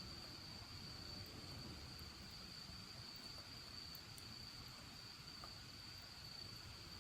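Faint, steady high-pitched trill of a cricket, held on one unbroken note, over a low rumble, with a few faint crackles from the wood fire.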